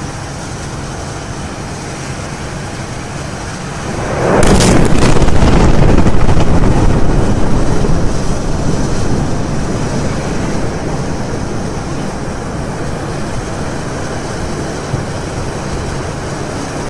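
Explosion at a petrochemical plant: a steady noise, then about four seconds in a huge blast whose rumble rolls on and slowly dies away over the next ten seconds.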